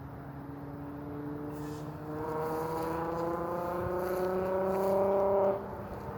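A motor vehicle engine accelerating, its pitch climbing steadily for a few seconds and then cutting off suddenly.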